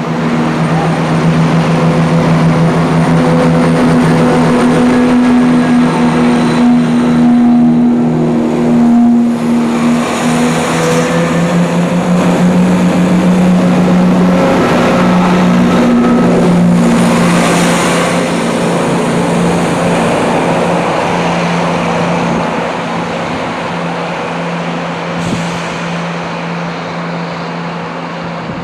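Diesel train's engines running with a steady low hum, fading gradually over the last ten seconds or so as the train moves away.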